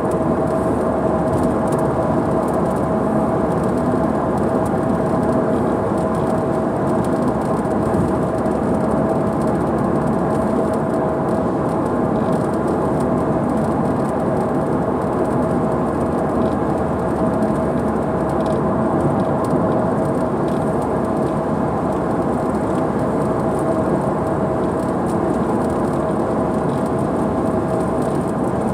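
Steady rushing noise inside a car driving through heavy rain, with a constant hum running under it.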